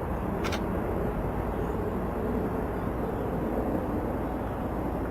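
Steady low outdoor rumble, like distant traffic or wind, with one brief click about half a second in.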